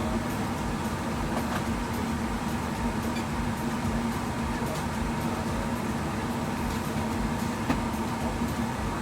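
Steady cabin noise inside a Boeing 777-300ER airliner: an even rush of air and engine noise with a constant low hum underneath, and a single sharp click about three quarters of the way through.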